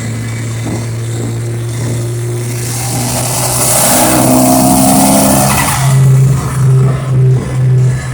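Mitsubishi Galant VR-4's turbocharged engine pulling under throttle, with a hissing turbo spool building up about three seconds in. Near the end the engine note surges four times, loud and then backing off.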